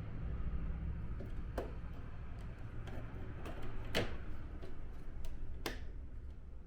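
Sharp plastic clicks and knocks from air-conditioner indoor-unit parts being handled and fitted back together, three of them louder than the rest, the loudest about four seconds in, over a steady low hum.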